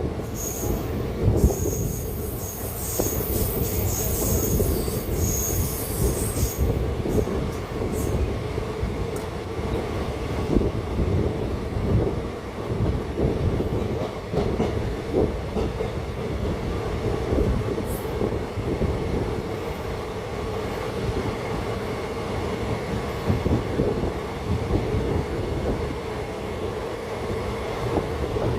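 Passenger train running along the line: a steady rumble and rattle of wheels on track, with many small knocks. A high-pitched squeal sounds over it for about the first six seconds.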